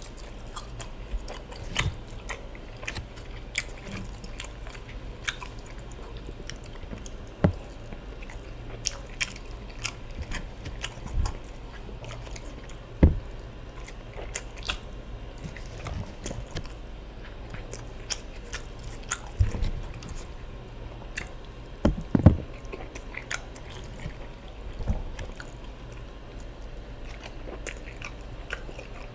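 Close-miked eating sounds: chewing, biting and wet mouth smacks from a meal of ofada rice and stew with plantain and fish. Irregular clicks and smacks come every second or so, with the sharpest ones about 13 and 22 seconds in.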